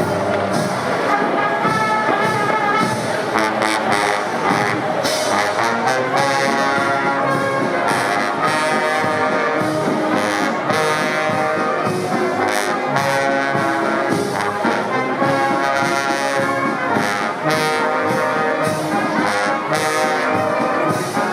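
Brass band playing a tune, with trombones and trumpets, kept up loud and steady throughout, with frequent sharp beats over it.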